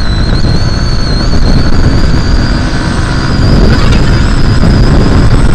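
Yamaha MT-15's 155 cc single-cylinder engine running at high revs in fifth gear under hard acceleration, its thin whine slowly rising in pitch. Heavy wind rumble on the microphone at speed is the loudest part.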